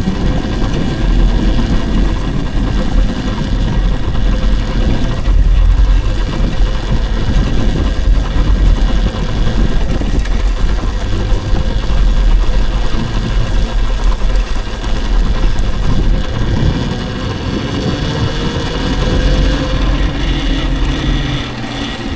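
Continuous riding noise from an electric dirt bike on the move: a loud, low rumble of wind and tyres. About 17 seconds in, a faint motor whine rises in pitch.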